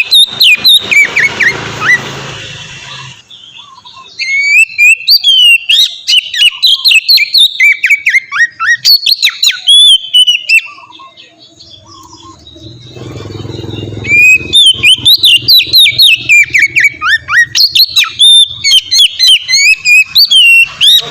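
Oriental magpie-robin (kacer) singing loud, open song in long runs of rapid, sharply gliding whistled phrases. The song breaks off twice, about three and twelve seconds in. A rushing background noise sits under the song near the start and again in the middle.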